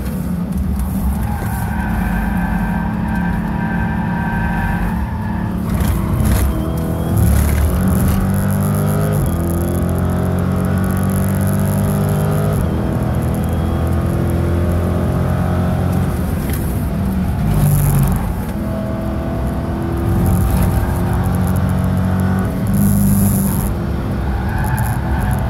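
The 6.4-litre HEMI V8 of a 2015 Dodge Charger SRT 392, heard from inside the cabin, pulling hard at track speed. Its pitch climbs and drops several times as it accelerates out of corners and goes through the gears.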